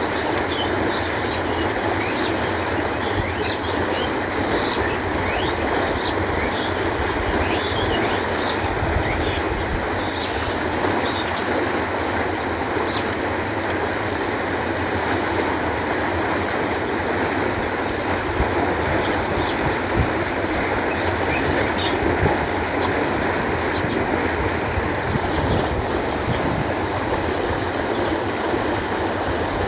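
Canal water flowing in a steady rush. Short, high bird chirps come through it, thickest in the first half.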